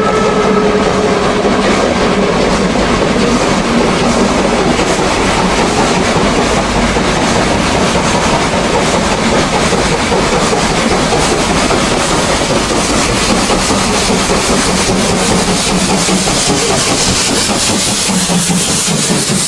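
A train running on rails, steady and loud.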